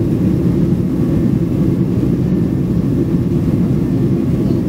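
Steady low roar of jet-airliner cabin noise: engine and airflow rumble heard from inside the passenger cabin.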